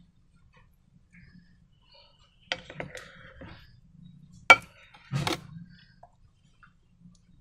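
Slime-making handling sounds: a few sharp taps and clicks of containers and tools being set down and handled, the loudest about four and a half seconds in, with quieter handling noises between.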